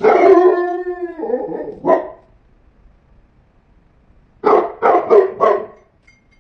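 Animal calls: one long cry with a wavering pitch, a short call, then four quick barks about four and a half seconds in.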